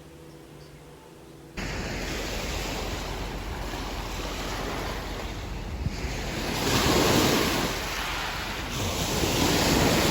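Ocean surf on a beach: waves washing in, swelling twice near the middle and end, with wind buffeting the microphone. It starts abruptly after about a second and a half of quiet room tone.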